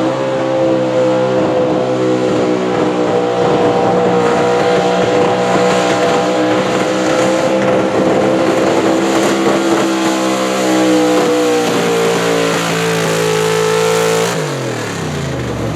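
Gas-engined pickup truck pulling a weight-transfer sled, its engine held at high revs under full load with a steady, slightly wavering pitch. Near the end the revs drop off sharply as the throttle is released.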